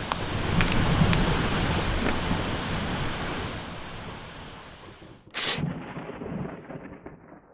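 A steady rushing noise with low rumbles, like rain and thunder, fades out over the first five seconds. About five and a half seconds in comes one short, sharp tear of a paper slip.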